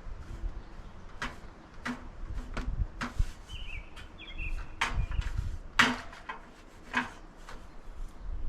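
A series of sharp knocks and clunks a second or more apart, over low rumbling, with a brief high chirp about four seconds in.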